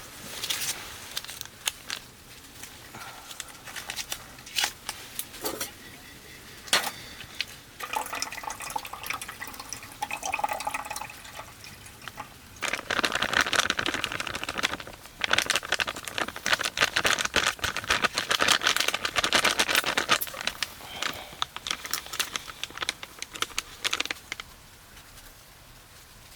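Clinks and knocks of camp cookware being handled, then water poured for several seconds, with a short break partway through.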